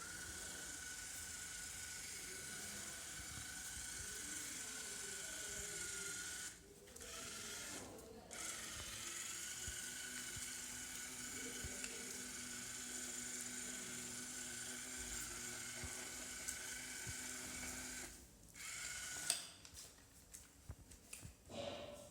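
Small geared electric drive motors of a Fire Bird V robot whining steadily as it drives. They stop briefly twice in the first half, stop about three-quarters of the way through, and a few short clicks follow.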